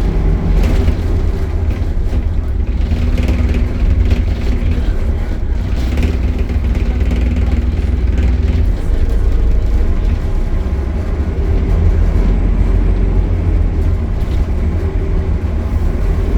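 Optare Solo single-decker bus running on the road: a steady low engine and driveline rumble with pitched tones that come and go as it moves through the Allison automatic gearbox.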